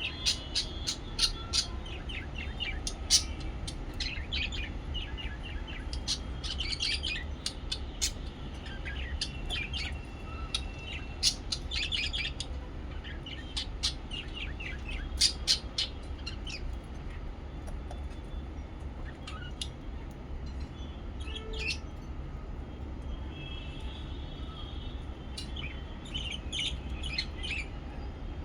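Lovebirds chirping: many short, sharp high chirps in quick clusters, thinning out in the middle stretch and picking up again near the end, over a steady low hum.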